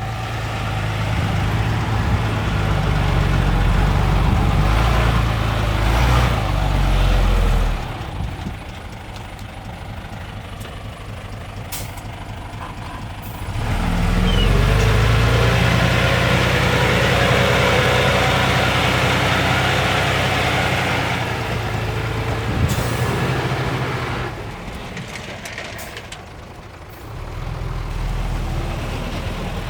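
Heavy diesel earthmoving machinery running: engine loud for the first eight seconds, easing off, then working hard again from about fourteen to twenty-four seconds before dropping back.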